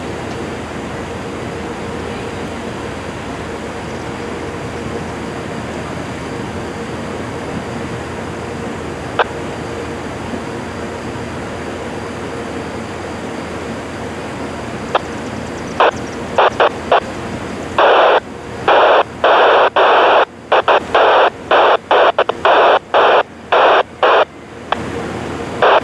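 Railroad scanner radio hissing with static, then a broken-up transmission that cuts in and out in loud, choppy bursts from about 16 seconds in.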